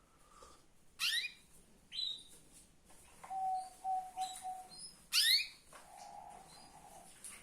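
Female canary in breeding condition calling: sharp rising chirps about one, two and five seconds in, with short high peeps between them and a lower steady note in the middle and again near the end. These female breeding calls are used to stir male canaries to sing.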